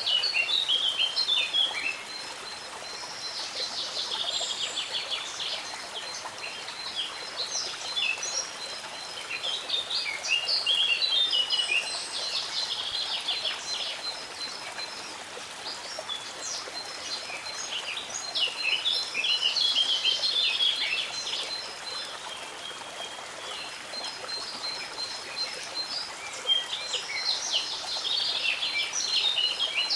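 Songbirds singing in bursts of warbling, chirping phrases every few seconds over the steady rush of a stream, with a thin, high, rapidly repeated note running underneath.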